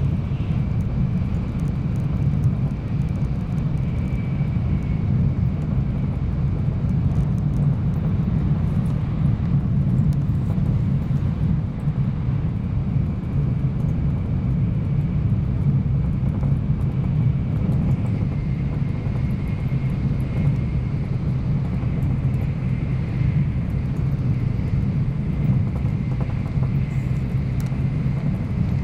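Running noise of an N700-series Shinkansen heard from inside the passenger car at speed: a steady low rumble of the train on the track. A faint high whine sits above it at the start and again through the second half.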